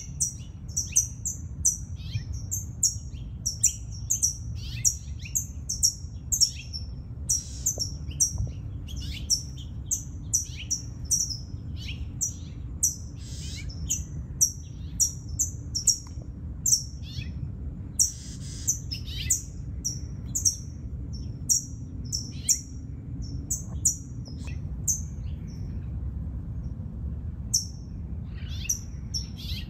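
Small birds chirping, short high chirps repeated two or three times a second and thinning out near the end, over a low steady rumble.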